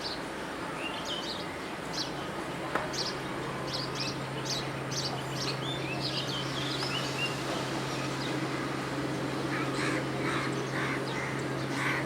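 Birds calling: many short, high chirps repeating throughout, over a steady background hum that comes in about three seconds in.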